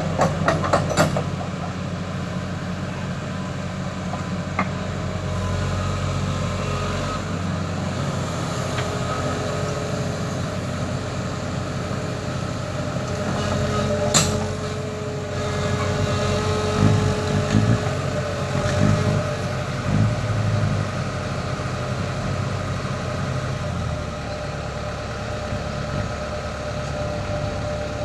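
Kobelco SK140 hydraulic excavator's diesel engine running steadily. There is a sharp metallic knock about halfway through, then several louder bumps shortly after.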